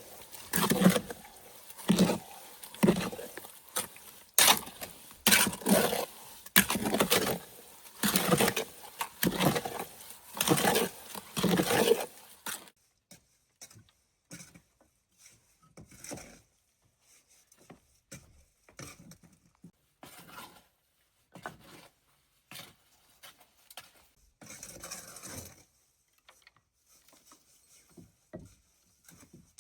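Irregular knocking and scraping of hand work for about the first twelve seconds, then only a few faint scattered clicks and rustles.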